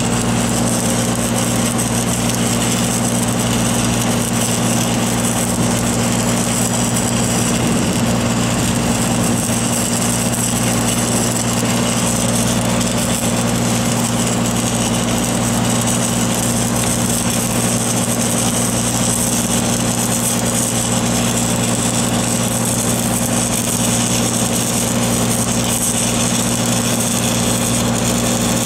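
Engine-driven welding machine running steadily under a stick-welding arc, whose even crackling hiss lies over the engine's constant hum.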